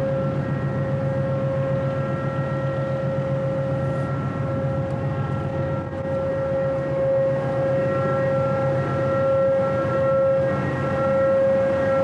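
Ship's machinery running steadily: a constant high whine over a low hum.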